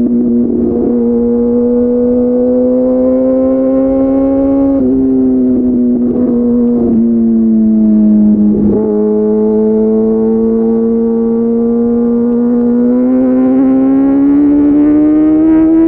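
Kawasaki ZX-6R 636's inline-four engine through an SC Project slip-on exhaust, running loud at a fairly steady engine speed. The pitch briefly dips about five and nine seconds in and climbs gradually near the end.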